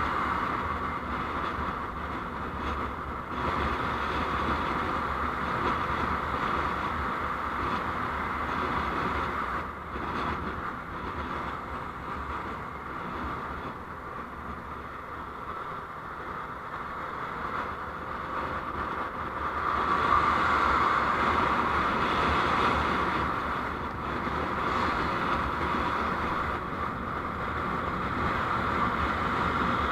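Steady road noise of a moving vehicle as picked up by a dashcam: tyre and engine hum with a rushing hiss. It swells for a few seconds about twenty seconds in, then settles back.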